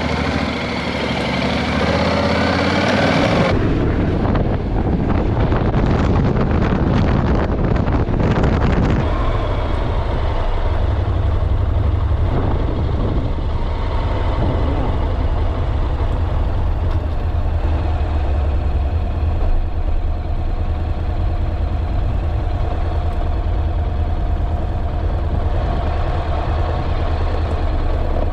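Honda NC750X motorcycle under way: the engine rises in pitch as it accelerates over the first few seconds. Heavy wind buffeting on the microphone follows, then settles to a steady low engine drone with wind rush.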